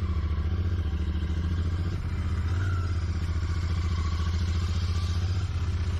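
Royal Enfield Continental GT 650's 648 cc parallel-twin engine idling steadily, with a soothing exhaust note.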